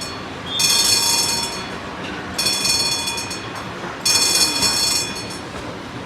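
Tram on the move, a steady rolling rumble with three bursts of high metallic ringing, each about a second long, spaced about a second and a half apart.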